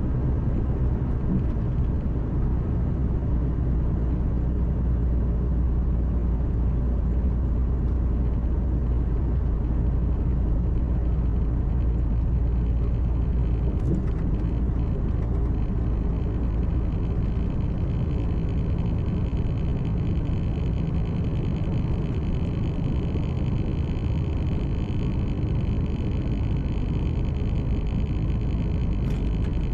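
Truck's diesel engine and tyre noise heard from inside the cab while driving: a steady low drone. A faint high whine joins in about halfway through.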